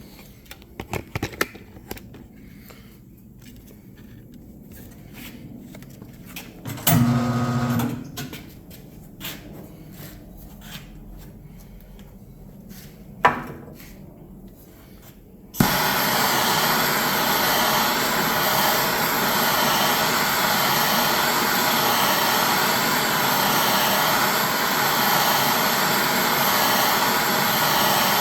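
A propane torch lights suddenly about halfway through and then runs with a steady, loud rushing noise while heating a bent motorcycle rim so the dent can be worked out. Before it lights there are a few clicks, a louder clatter and a single sharp knock.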